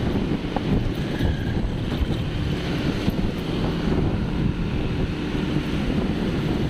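Wind buffeting the microphone in a steady rumble, with a low engine hum beneath it, as from a vehicle on the move.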